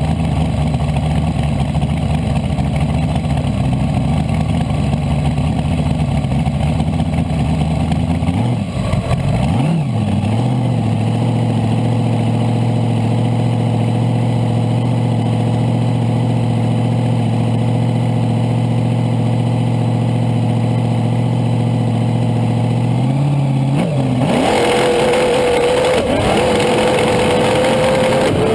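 Supercharged small-block Chevy V8 of a front-engine dragster running steadily at low revs, settling to a new steady pitch about nine seconds in. About twenty-four seconds in it goes up sharply to a much harsher, full-throttle sound.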